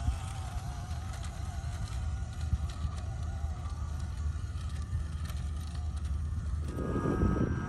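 Small RC crawler's 370 brushed motor and single-speed metal gearbox whining as the truck drives, with a low rumble underneath. Near the end the whine steadies at a higher pitch and grows louder as the truck speeds up.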